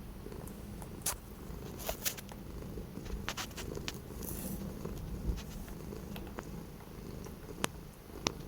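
Domestic cat purring steadily, with scattered sharp clicks over it.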